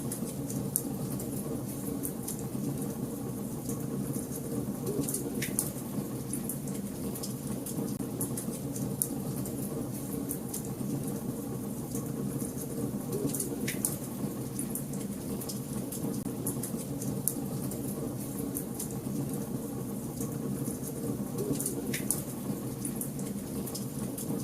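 Wood fire burning in a fireplace: a steady low rush of flames with frequent small crackles and a few sharper pops.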